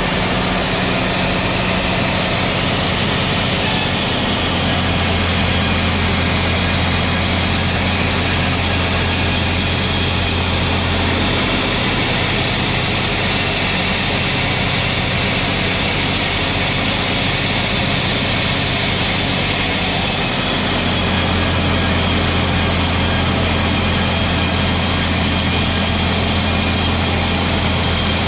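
Sawmill machinery running steadily as a pine log is sawn into slab boards, its low hum and hiss growing heavier during two cutting stretches, about four seconds in and again about twenty seconds in.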